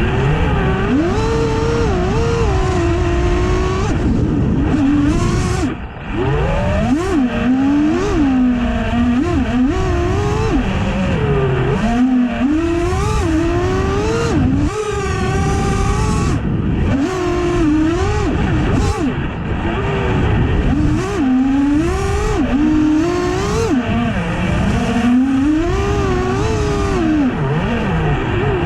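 FPV quadcopter's brushless motors and propellers whining, the pitch rising and falling constantly with throttle, heard through the drone's onboard camera microphone. The throttle briefly drops off about six seconds in.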